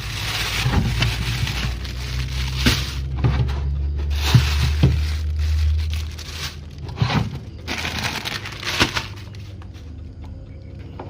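Plastic packaging being crinkled, crushed and torn in several bursts with sharp crackles, over a low steady hum that stops about six seconds in.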